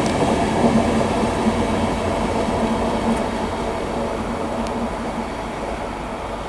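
An LNER InterCity 225 electric train running along the track with a steady rumble and a low hum, slowly fading as it draws away.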